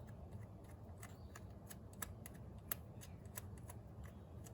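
Faint, irregular light metallic clicks and ticks of a bolt being threaded in by hand and fingers handling engine parts, a few a second with no steady rhythm.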